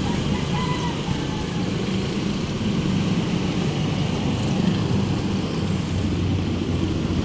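Steady city road traffic: vehicle engines and tyres running without a break.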